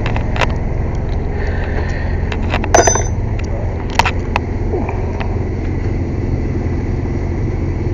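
Air compressor running with a steady low drone, with a few sharp metallic clinks and taps of tools on top.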